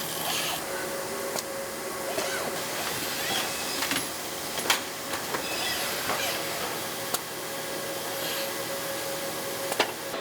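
Assembly-line factory ambience: a steady machine hum with a held tone, broken by sharp clicks and clinks of parts being handled, about six of them, the loudest a little before halfway.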